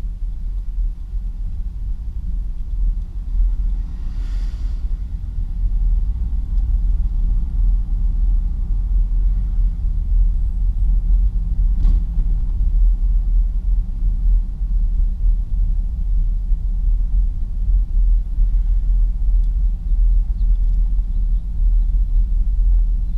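Pickup truck driving, a steady low rumble of engine and road noise, with a brief hiss about four seconds in and a single sharp click near the middle.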